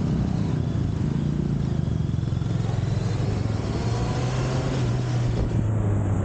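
Honda CBR650R's inline-four engine running at low revs as the motorcycle rides slowly, a steady low engine note.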